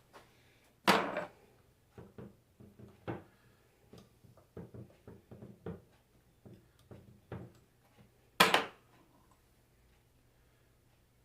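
Metal alternator parts and tools being handled on a workbench: two loud knocks, about a second in and near the end, with many lighter clicks and taps between them.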